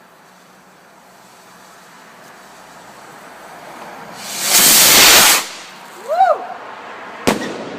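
A large firework rocket launching. A hiss slowly builds, then a loud rushing whoosh lasts about a second, starting some four and a half seconds in. Near the end comes a single sharp bang as the rocket bursts.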